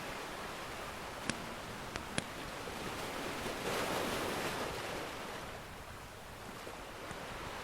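Ocean surf washing steadily, with one wave swelling up about halfway through and falling away again. A few sharp crackles and pops from a wood fire come in the first couple of seconds.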